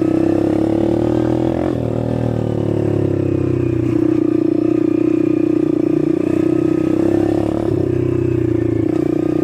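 Dirt bike engine running while the bike is ridden, its pitch rising and falling as the throttle is opened and eased off, with a rise and fall about two seconds in and a dip near the eight-second mark.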